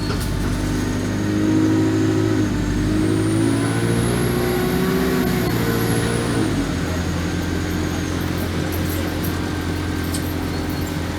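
Alexander Dennis Enviro200 bus's diesel engine accelerating. Its pitch rises, drops at a gear change a couple of seconds in, rises again, then settles to a steady lower note a little after halfway. A faint high whine rises and falls over the middle.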